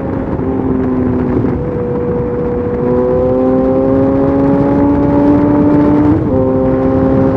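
Yamaha FZ8's inline-four engine through a LeoVince exhaust with the dB killer removed, running under way with its note rising slowly, then breaking briefly about six seconds in and settling at a slightly lower pitch.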